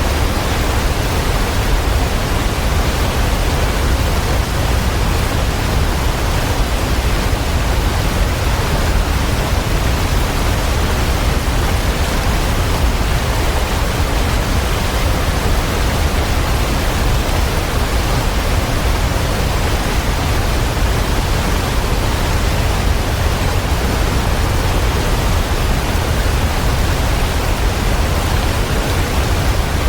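Waterfall: a loud, steady, unbroken rush of falling water, heaviest in the low end.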